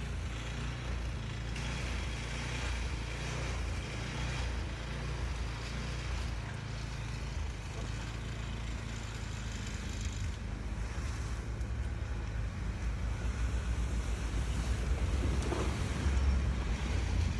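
Steady low rumble of a moving car, with road and engine noise, growing somewhat louder toward the end.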